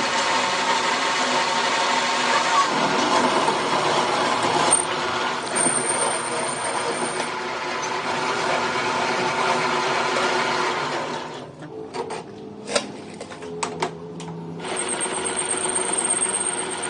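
Workshop power tool or machine tool running with a steady mechanical hum, broken by a quieter stretch of about three seconds with a few sharp knocks before the running resumes.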